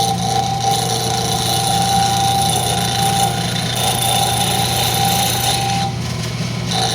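Wood lathe running with a steady motor hum while a turning tool cuts a spinning rosewood blank, a continuous hiss that lets up briefly about six seconds in.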